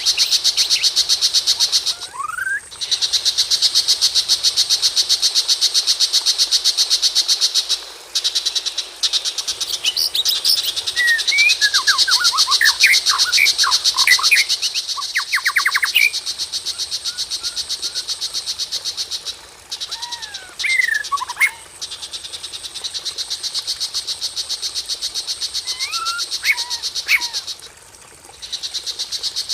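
White-rumped shama whistling short sweeping phrases now and then over a steady, very fast high-pitched pulsing trill that runs almost without a break. The track is a recorded lure call meant to rouse a caged shama.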